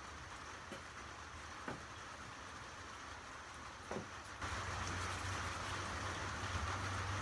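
Steady rain hiss with a few sharp taps. About four seconds in, a louder hiss and a steady low hum start up together.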